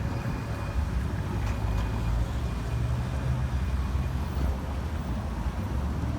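Low, steady rumble of city street traffic mixed with wind buffeting the microphone, with a faint thin high tone over the first few seconds.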